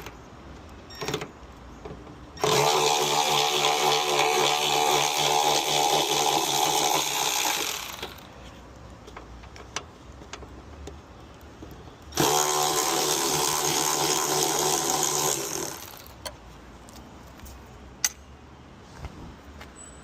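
A power tool, such as a cordless drill or driver, running in two long bursts: about five seconds, then a pause, then about three and a half seconds. A few light clicks come in between.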